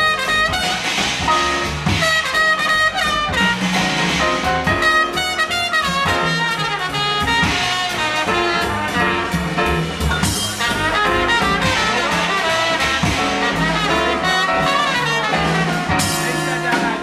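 Live jazz quintet playing: a horn line over piano, acoustic bass and drum kit with cymbals riding steadily.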